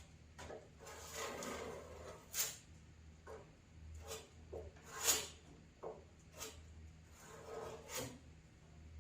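Fiberglass mat being pressed and rubbed down into a hood repair: an irregular run of dabbing taps and short rubbing strokes.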